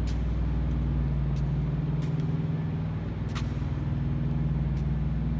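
Steady low drone of an idling diesel truck engine, with a few faint clicks, in an underground cave.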